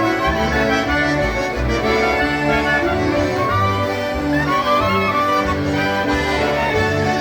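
Several concertinas playing a tune together, their reeds sounding full chords over a steady, repeating bass note.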